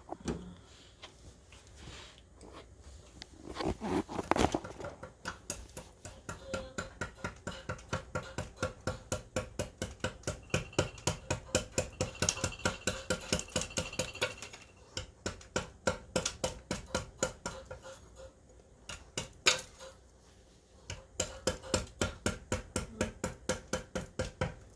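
Wood carving with a chisel: a rapid, regular run of sharp taps, about four a second, in several stretches with short pauses, each tap with a slight ring.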